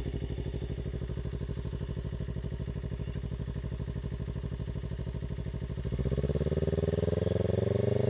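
Kawasaki Ninja 300 parallel-twin engine idling with an even, pulsing note, then about six seconds in it gets louder and climbs steadily in pitch as the bike is revved and pulls away.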